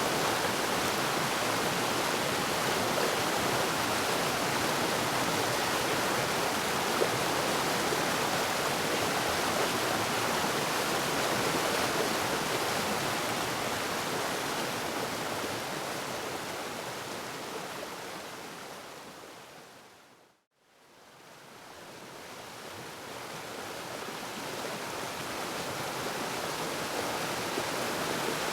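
Waterfall, a steady even rush of falling water. About two-thirds of the way through it fades down to a moment of silence and then fades back up.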